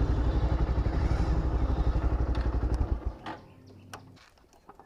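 Motorcycle engine running with a fast, even pulsing beat, which cuts off abruptly about three seconds in; a couple of sharp clicks follow in the quiet.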